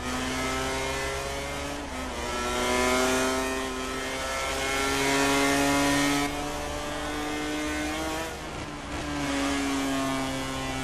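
MotoGP racing motorcycle engine at high revs, its pitch climbing under acceleration and dropping back a few times as it shifts or eases off.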